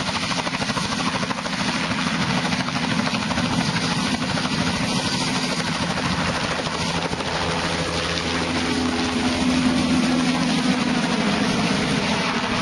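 Helicopter running at close range, its rotor making a fast, steady chop, growing a little louder about nine seconds in.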